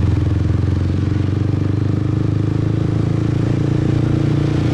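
Motorbike engine running at a steady speed while being ridden, its pitch holding level.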